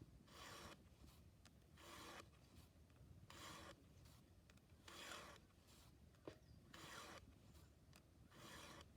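Faint strokes of a file on a chainsaw chain's cutters, six even rasping strokes about one and a half seconds apart, with a single sharp click about six seconds in.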